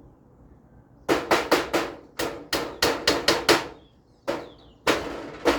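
Hammer driving nails into a galvanized iron roofing sheet: a quick run of about ten blows starting about a second in, then three slower blows near the end.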